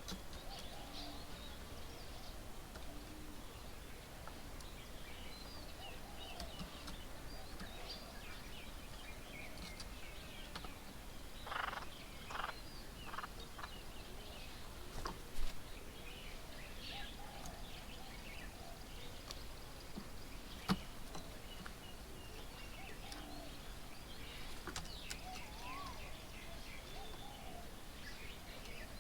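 Several birds chirping and calling, short high chirps throughout with some lower curved calls, a few louder calls about halfway through. A single sharp tap about two-thirds of the way in.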